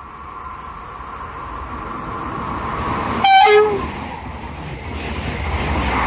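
TER Bretagne Regio 2N double-deck electric train approaching and running past, its rumble building steadily. About three seconds in it sounds a short two-note horn, high then low, the loudest moment. The noise swells again near the end as the carriages go by.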